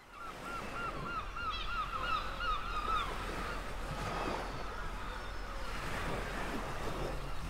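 A rapid run of about ten honking bird calls in the first three seconds, over a steady wash of ocean waves and wind.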